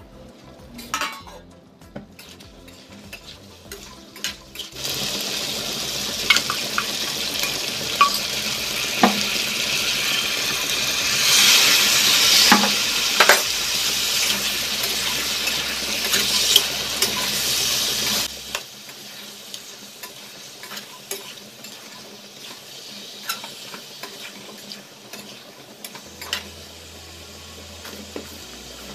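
A steel kadhai clinks as it is uncovered. About five seconds in, potatoes and pointed gourd coated in masala paste start sizzling loudly as a steel spatula stirs and scrapes them against the pan. The sizzle drops off suddenly about eighteen seconds in, leaving quieter stirring with occasional spatula taps.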